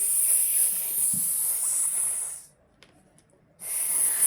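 A person hissing through the teeth to imitate a snake: one long hiss, a short pause, then a second long hiss starting near the end.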